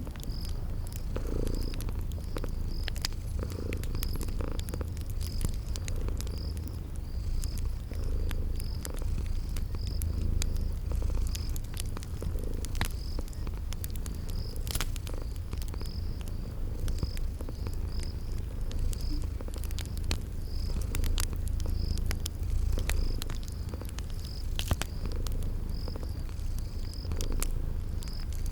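A cat purring steadily, the purr swelling and easing about once a second, over crickets chirping in an even rhythm and the sharp, irregular pops of a crackling wood fire.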